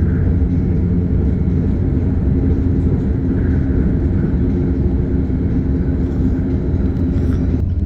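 KLIA Express electric train running at speed, heard from inside the carriage: a steady low rumble of wheels on track, with a steady hum that drops away near the end.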